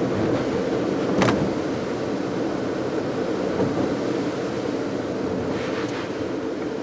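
Car driving, heard from inside the cabin: a steady drone of tyre and engine noise, with one sharp knock about a second in.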